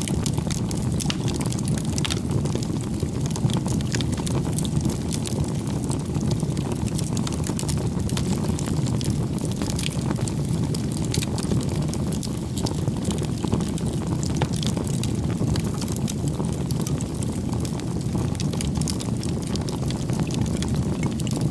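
Campfire burning: a steady low rush with frequent small crackles and pops of burning wood.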